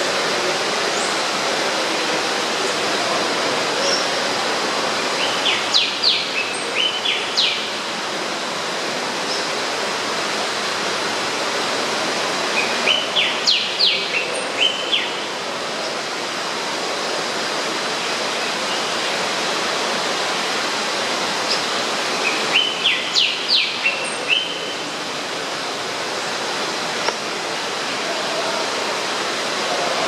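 A bird sings the same short phrase of quick, high chirps three times, several seconds apart, over a steady rush of falling water.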